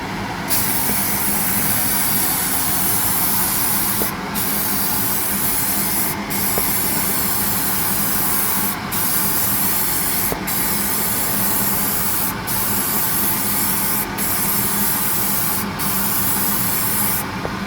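Nitrocellulose primer being sprayed onto a guitar body: a steady hiss in a series of passes of about two seconds each, with a short break between passes.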